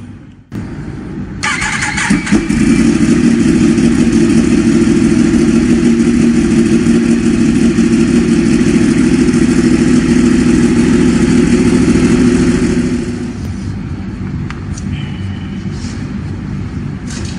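Yamaha R1 motorcycle's inline-four engine started about a second and a half in and running steadily at idle, with engine flush mixed into its oil before an oil change. About thirteen seconds in the sound drops to a lower level for the last few seconds.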